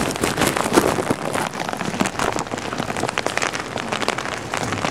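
Heavy rain pouring, with a dense patter of drops hitting surfaces close by.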